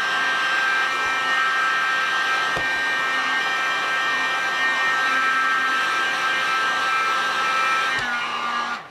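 Electric heat gun running steadily, its fan blowing with a high whine. Near the end it is switched off and winds down, the whine falling in pitch.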